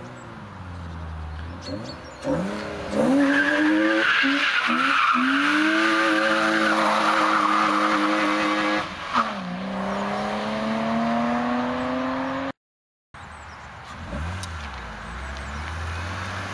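BMW E36 325i's 2.5-litre straight-six revving hard as the car drifts on snow: revs climb a couple of seconds in and are held high for several seconds with a hiss of spinning tyres, drop about nine seconds in and build again. After a brief gap the engine runs quieter at lower revs.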